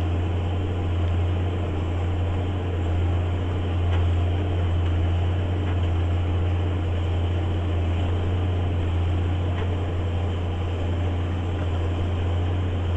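JCB Fastrac 8250 tractor running steadily while pulling a plough, a constant low drone with no change in pitch.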